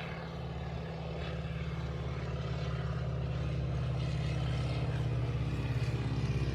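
Propeller aircraft engine droning steadily, growing louder as the plane approaches.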